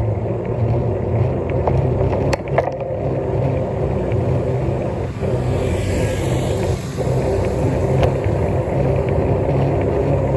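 Steady road noise from riding: a low rumble of wind and tyres, with a brief whooshing swell about six seconds in.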